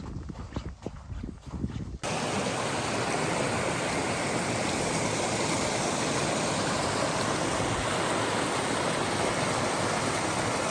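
Small mountain stream rushing over rocks: a steady, even rush of water that begins abruptly about two seconds in, after a short stretch of uneven, gusty noise.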